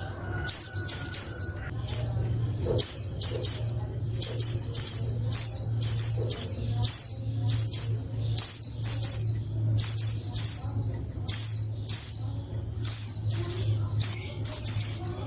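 Female white-eye (pleci) calling: short, high, downward-slurred notes, often in quick pairs or triples, about two a second, over a steady low hum.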